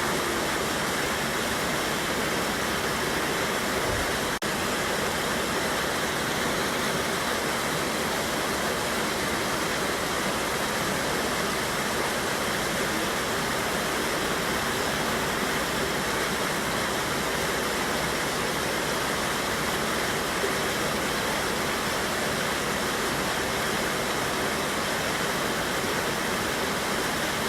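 Water rushing steadily over a small waterfall on a mountain river, an even unbroken roar of falling water.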